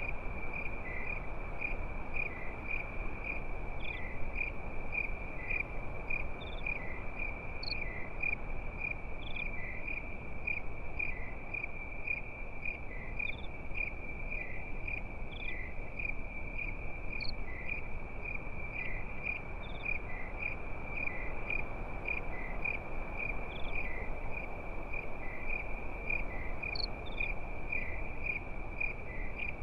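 Crickets chirping in a steady, dense night chorus, with a slower pulsing chirp about twice a second and scattered higher chirps over it.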